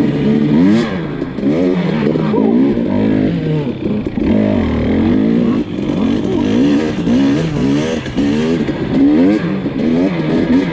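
Dirt bike engine revving up and down repeatedly while riding a rough trail, its pitch rising and falling about every half second as the throttle is worked.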